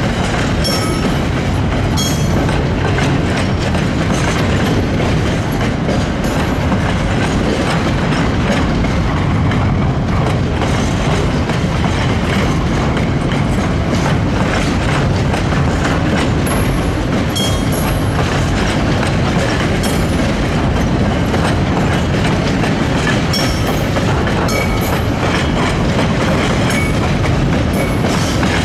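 A train running along the track: a steady, loud rumble with scattered clicks of the wheels over the rails.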